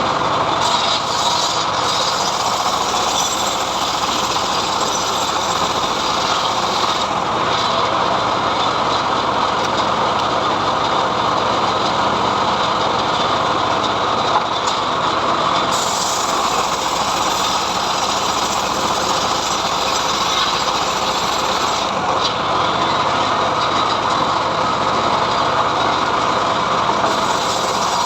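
Engine-driven homemade sawmill (srekel) running steadily and sawing through mahogany, a continuous loud mechanical noise with no pauses.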